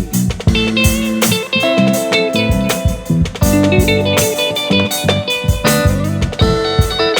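Instrumental band music: guitars playing melodic lines and chords over bass guitar and a drum kit keeping a steady beat.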